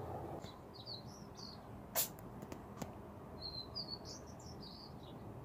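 Small bird chirping in two short bursts of high twittering, with a single sharp click about two seconds in.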